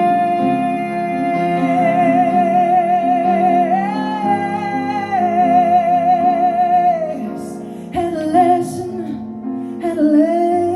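A woman singing one long held note for about seven seconds, steady at first and then wavering with vibrato, over piano chords. Shorter sung phrases follow near the end.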